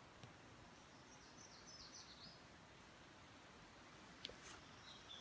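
Near silence with faint birdsong: a short run of high chirping notes about a second in. Two faint clicks near the end.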